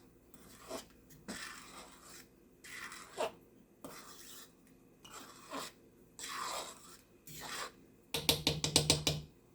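A spoon stirring rice in a pot of cooking liquid, scraping against the pot in repeated strokes. About 8 s in comes a quick run of sharp taps, the loudest sound here.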